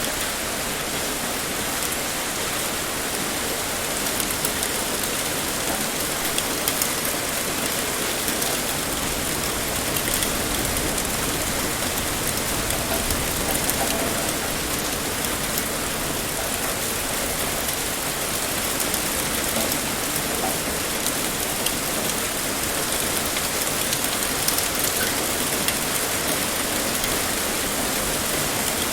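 Heavy rain pouring steadily, a dense even hiss of drops with fine patter in the highs.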